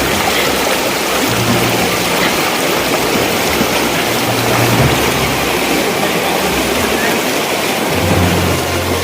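Steady rushing noise of flowing floodwater, with a low hum coming and going underneath.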